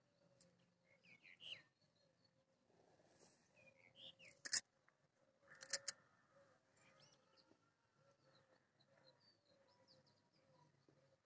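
Faint chirping of small birds, a few short rising-and-falling calls. Two sharp clicks, the loudest sounds, come about four and a half and six seconds in.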